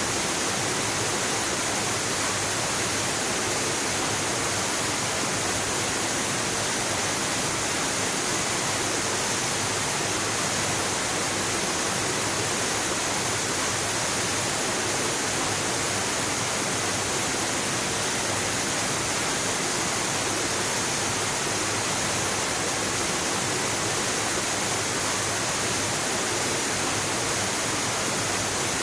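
Waterfall rushing in a steady, unbroken roar of water.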